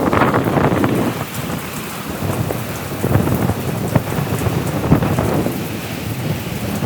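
Strong, gusty wind from an approaching cyclone buffeting the microphone in a loud, churning rumble, loudest at the start, with a few sharp taps mixed in.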